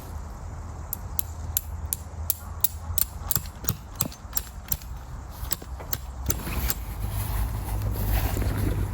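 A run of sharp mechanical clicks, about three a second, lasting several seconds, giving way near the end to a steady rushing noise.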